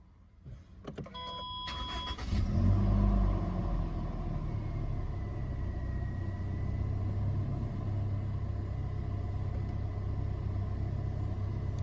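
A few clicks and a short beep, then the Toyota Innova's 2.0-litre four-cylinder petrol engine starts about two seconds in, flares briefly and settles into a steady idle.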